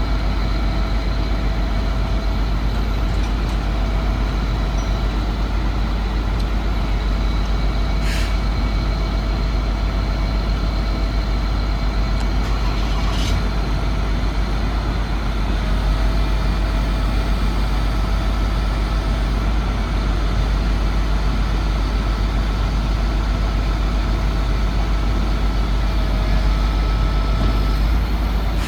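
The engine of a 1999 Chevrolet C7500 medium-duty truck idling steadily. Two short, sharp sounds come through, about eight seconds in and again five seconds later.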